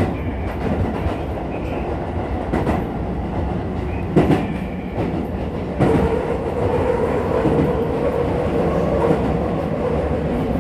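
Keisei 3000-series electric commuter train running at speed, heard from inside the car: a steady rumble with sharp wheel knocks over rail joints every second or two, and a steady hum that sets in about six seconds in.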